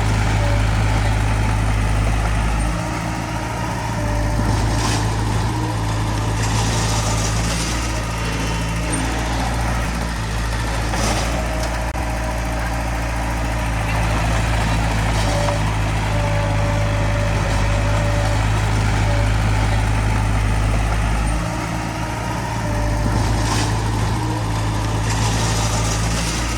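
Small bulldozer's diesel engine running steadily under load, its pitch and level easing off briefly twice, with a few short clanks and scrapes from the tracks and blade on stone.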